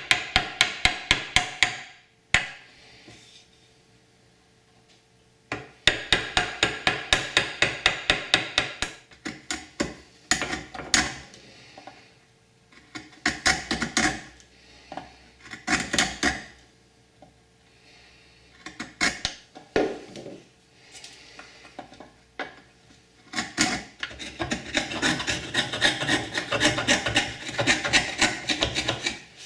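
Hand tools cutting a tenon in hard oak: runs of quick, rhythmic rasping strokes, about four or five a second, lasting a few seconds each with pauses between.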